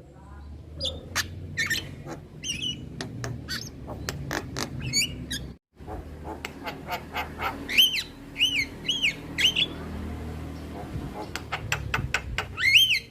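Male Javan myna calling: a run of sharp clicking and chattering notes, with several arched, whistled notes about two-thirds of the way through and again near the end. The sound drops out completely for a moment a little past halfway.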